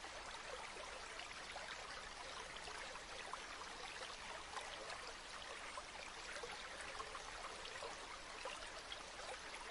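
A river or stream flowing steadily: a soft, even rush of water with small trickling splashes throughout.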